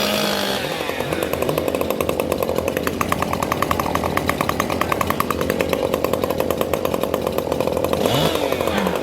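A two-stroke racing chainsaw running at low speed with an even, rapid pulsing beat, as at idle between cuts.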